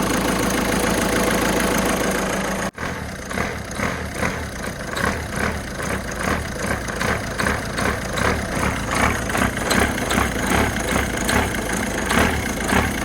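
Peugeot 207 engine idling with its accessory belt squealing, the sign of a worn-out belt. About three seconds in the sound cuts off abruptly, then returns as an even chirping pulse, two to three a second.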